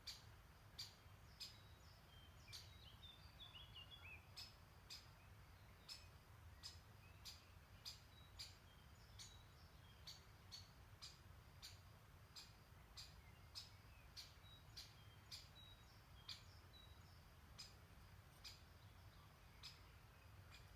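Faint songbirds chirping over a low steady background, with a regular run of sharp, high ticks about one to two a second, and a short burst of bird twittering about three seconds in.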